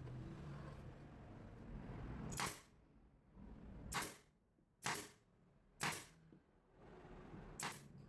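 A low steady hum for about two and a half seconds, then five sharp, short clicks or knocks at irregular intervals, roughly a second apart.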